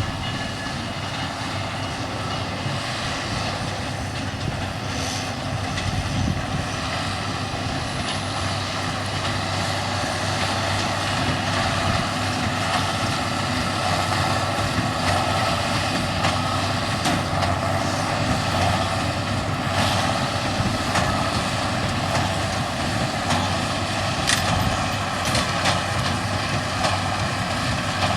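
A vehicle running steadily: a constant drone with several held tones.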